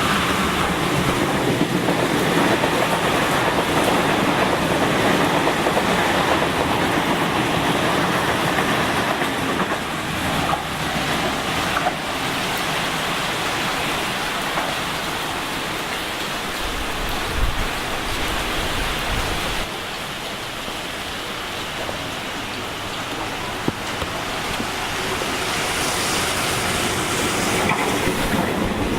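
Sydney electric suburban train running through a station, a steady rush of wheels on rails that eases a little about two-thirds of the way through and builds again near the end.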